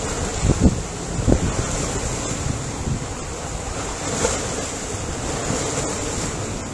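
Ocean waves washing on the shore, with wind buffeting the microphone in a few low thumps in the first second and a half.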